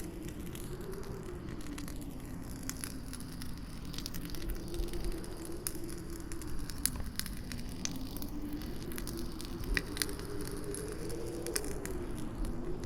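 Campfire crackling with irregular sharp pops, over a howling wind whose low tone slowly rises and falls in pitch.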